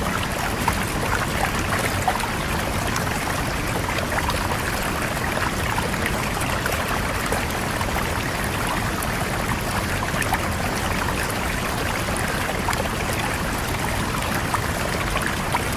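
River water flowing steadily over rocks, a continuous rushing with small splashes and trickles.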